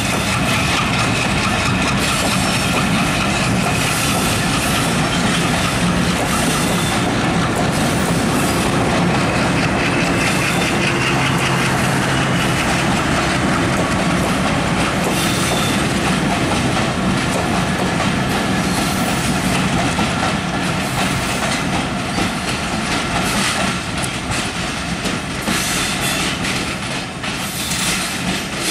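Bangladesh Railway passenger coaches of the Rupsha Express departing, their wheels running steadily over the track with a thin high tone that climbs slightly about ten seconds in. The sound eases a little near the end as the rake draws away.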